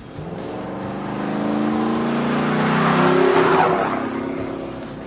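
Exhaust note of a GM heavy-duty pickup's 6.0-litre gas V8 through a Flowmaster American Thunder catback system with a 50 Series muffler, a deep engine tone that builds to a peak about three seconds in and then fades.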